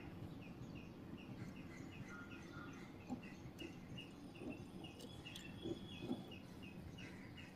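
Faint small bird calling in the background, one short chirp repeated evenly about three times a second, with a few soft clicks as a resistor's leads are pushed into a breadboard.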